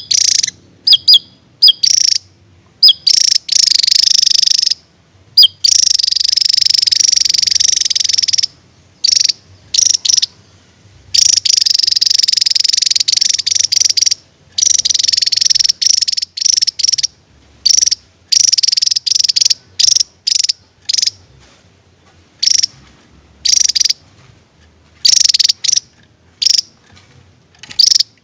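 Javan tesia singing: short, sharp high notes alternating with long, rapid, buzzy trills of one to three seconds, broken by brief pauses. The long trill bouts are the 'tembakan' (burst) phrases that bird keepers prize in this species.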